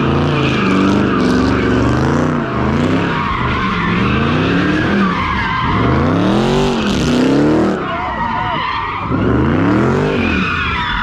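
A car engine revving hard, its pitch rising and falling again and again, while the tires squeal as they spin and slide.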